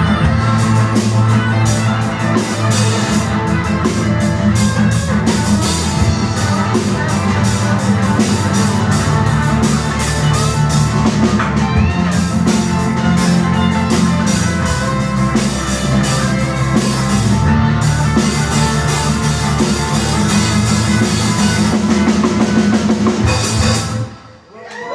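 Live rock band playing an instrumental passage with drum kit, bass and electric guitar, then stopping together near the end.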